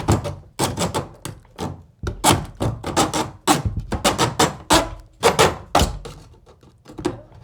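A rapid, irregular run of sharp knocks and clatters, two to four a second, easing off near the end.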